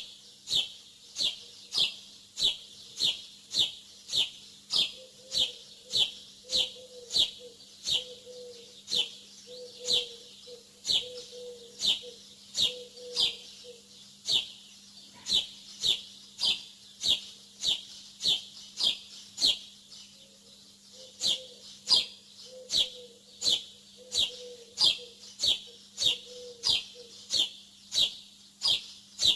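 A bird repeating one short, downward-sliding chirp about twice a second, steadily and without a break. A faint low warble comes and goes beneath it, over a steady low hum.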